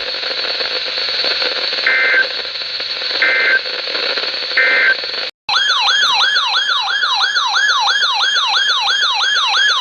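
Emergency Alert System broadcast audio over a hissy radio feed, with three short data-tone bursts about a second and a half apart: the end-of-message code that closes a warning. After a brief drop-out, a loud electronic warbling alert tone starts, sweeping up in pitch about three times a second.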